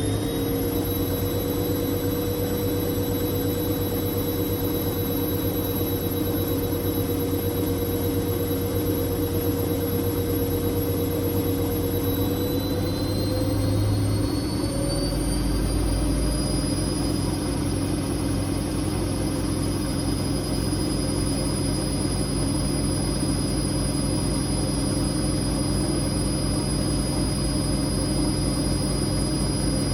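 Whirlpool Indiana 1400 front-loading washing machine spinning at high speed, with a steady motor whine over a low hum. The whine climbs in pitch about 13 to 17 seconds in as the drum speeds up, then holds steady at the higher speed.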